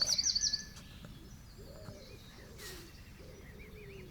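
Birdsong: a songbird's fast, high trill at the start, then a pigeon cooing in a run of low, soft notes, with a faint twitter near the end.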